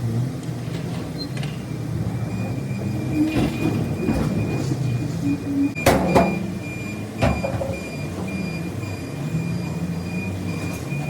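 A vehicle engine running steadily, with a faint high steady whine and two sharp knocks about six and seven seconds in.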